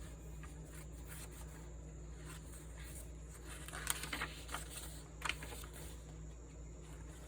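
Faint rustling of paper journal pages and cards being handled and turned, with a few soft papery ticks about four and five seconds in, over a steady low hum.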